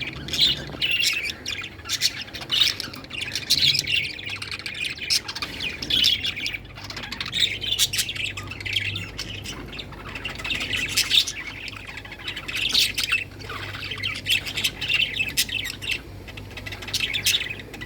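A flock of budgerigars chattering and chirping continuously, with overlapping squawks and warbles.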